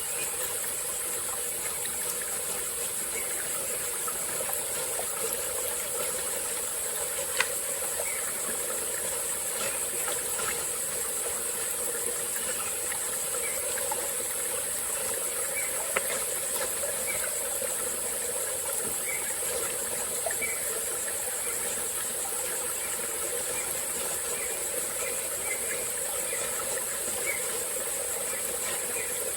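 A steady, high-pitched insect chorus over a small tropical forest stream flowing and trickling, with scattered faint chirps and two sharp clicks.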